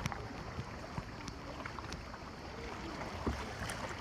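Water sloshing and trickling around a kayak, with faint small ticks and a soft thump about three seconds in.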